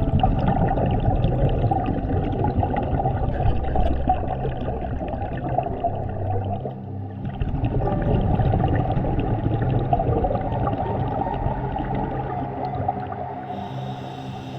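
Scuba regulator exhaust bubbles gurgling underwater as a diver breathes out, in two long exhalations with a short break between them.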